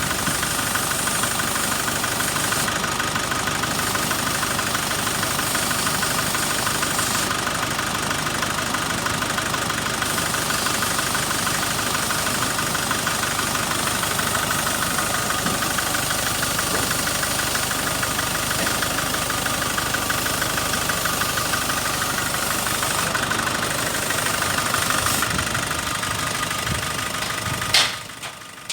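Nissan Navara 2.5-litre diesel engine running steadily at idle. Near the end there is a sharp click and the sound drops away.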